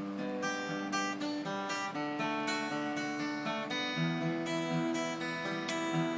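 Acoustic guitar coming in at once and playing an instrumental introduction, a sequence of chords with the notes left ringing.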